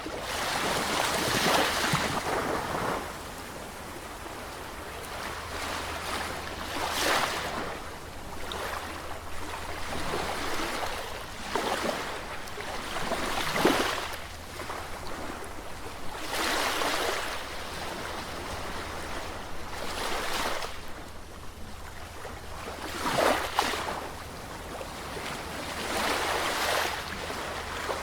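Sea waves breaking and washing on the shore, a surge of surf rising and fading roughly every three seconds over a steady low rumble of the sea.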